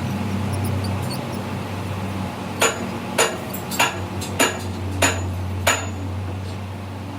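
Six sharp hammer blows on metal, about two every second a little over two seconds in, each with a short metallic ring, over a steady machine hum.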